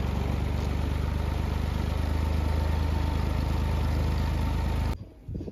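An engine running steadily at idle with a low, even hum, cutting off abruptly about five seconds in.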